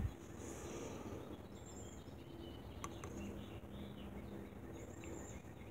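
Quiet outdoor background with a few faint, short bird chirps and a single light click a little under three seconds in.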